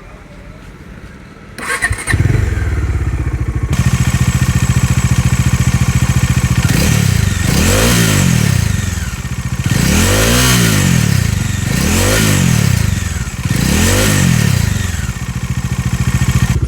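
Bajaj Dominar 400's single-cylinder engine is started about two seconds in and idles. It is then revved four times in quick succession, about two seconds apart. The revving is meant to bring out a rattling, buzzing noise that the owner blames on a loose nut or bolt near the engine cowl.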